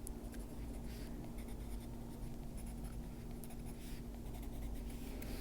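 Oil-based colouring pencil (Faber-Castell Polychromos, earth green) scratching lightly on paper in short, quick strokes, dabbing in small leaves.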